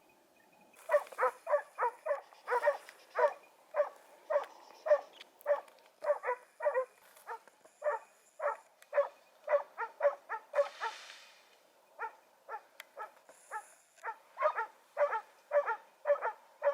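Hunting dog barking over and over, about two barks a second, with a short pause past the middle.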